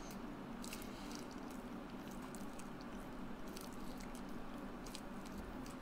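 Faint close-up mouth sounds of a person chewing, with small scattered wet clicks, over a steady low hum.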